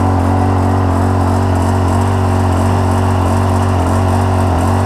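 Rainman watermaker's motor and high-pressure pump running steadily with a constant drone, making fresh water from brackish canal water.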